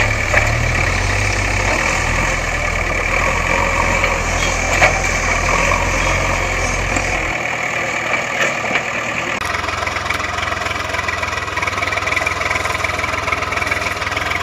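An engine running steadily at idle. The deep low rumble drops away about seven seconds in, and the sound changes abruptly a couple of seconds later.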